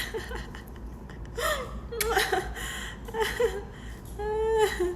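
African grey parrot vocalising: a series of short chattering calls that slide up and down in pitch, then one longer, steadier call near the end.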